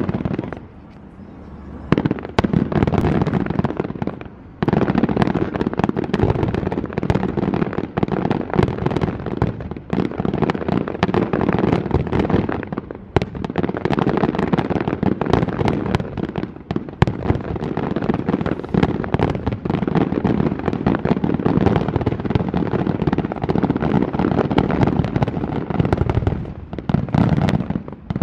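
Aerial fireworks shells bursting in a dense, nearly unbroken run of bangs, with a short lull about a second in.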